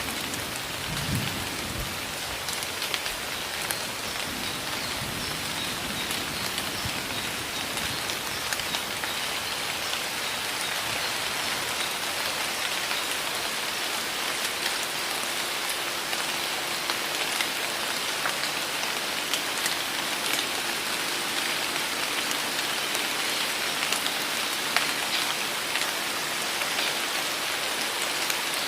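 Heavy pouring rain falling steadily, a dense hiss with many individual drops ticking.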